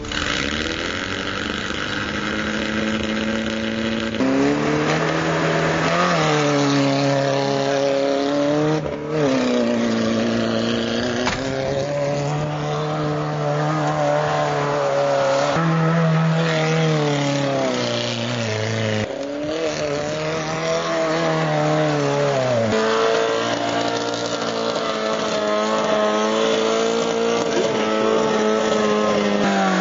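Toyota Corolla KE55's four-cylinder engine revving hard under load, its pitch climbing and falling again and again, with sharp drops about nine and nineteen seconds in.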